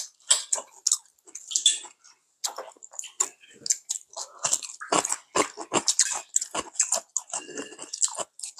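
Close, wet chewing and lip smacks of people eating, in quick irregular bursts of small mouth clicks.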